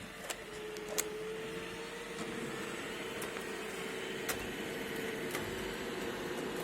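iRobot Roomba e5 robot vacuum running: its motor hum rises in pitch over the first couple of seconds as it spins up, then runs steadily with a hiss, broken by a few sharp clicks.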